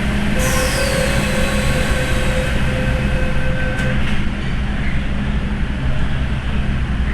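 MTR M-Train electric multiple unit running with a steady low rumble. From about half a second in, a squeal of several steady high tones joins, opening with a short falling whistle, and stops about four seconds in.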